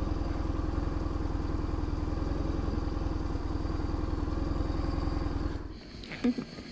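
Motorcycle engine running at a steady pace with an even firing pulse. It stops abruptly about five and a half seconds in.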